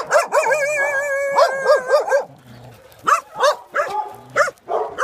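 Dog barking and yelping excitedly: a long wavering howl-like call in the first two seconds, then a run of short, sharp barks.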